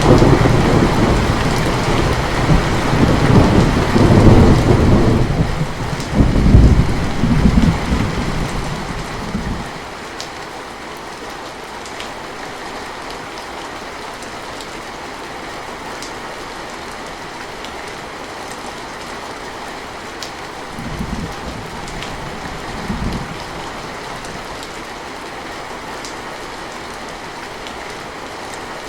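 Steady rain with a long roll of thunder, loudest about four and six and a half seconds in and dying away by about ten seconds. Two shorter, fainter rumbles come about twenty-one and twenty-three seconds in.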